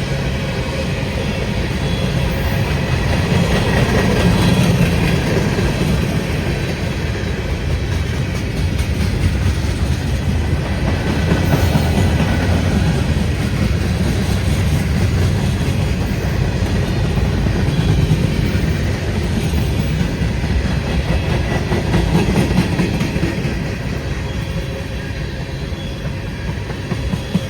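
Freight train cars rolling steadily past at close range: a continuous loud rumble of steel wheels on the rails.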